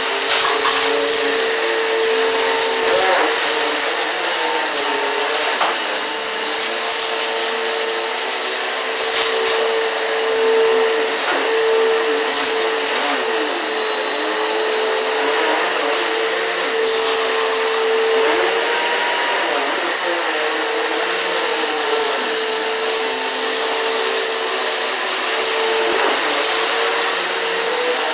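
Eureka PowerSpeed upright vacuum cleaner running steadily with a continuous high motor whine, its pitch dipping slightly now and then as it is worked over the floor. A few small crackles of crunchy debris being sucked up come through here and there.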